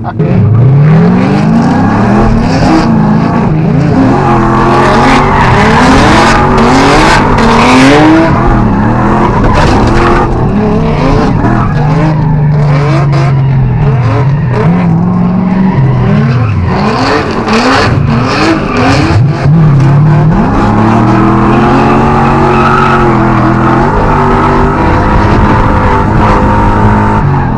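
Drift car's engine revving hard, its pitch climbing and dropping again and again through the run, with tyres squealing as the car slides, heard from inside the car.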